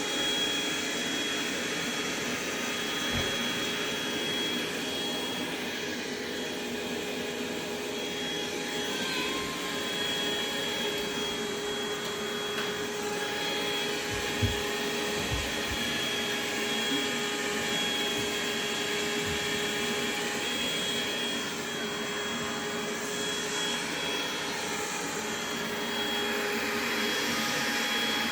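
Robot vacuum cleaner running steadily, with a constant high whine over its motor and brush noise, and a few dull low thumps along the way.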